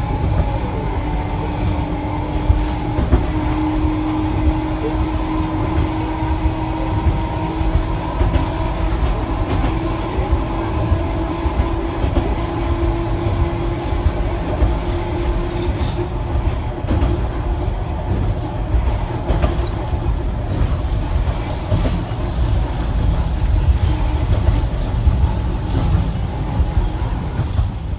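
Rail vehicle running: a steady, loud low rumble with a constant motor whine that is strongest through the middle of the run.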